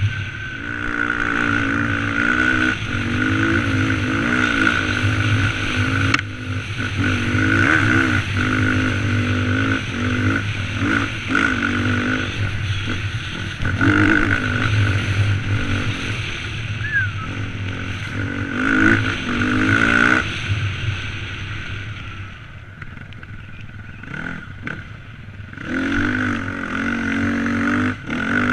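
Dirt bike engine running under riding load, its pitch rising and falling as the throttle opens and closes. It drops quieter for a few seconds near the end, then picks up again.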